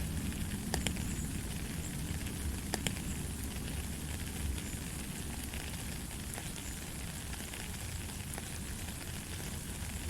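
Steady light rain falling: an even hiss with scattered sharper ticks of single drops.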